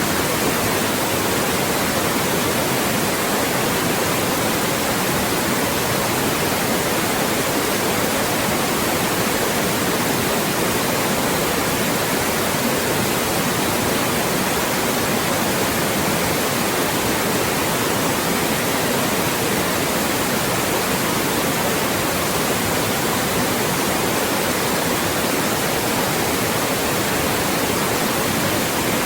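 Loud, steady white noise: an even hiss across the whole range of pitch, without change or pattern, generated as a masking sound to block voices.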